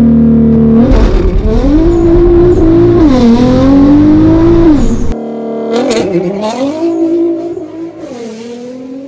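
Nissan GT-R R35 twin-turbo 3.8-litre V6 on a launch-control start: the revs are held high, then the car launches about a second in and accelerates hard. The engine note climbs through the gears and drops back at each quick upshift, about every two to three seconds, and fades in the last seconds.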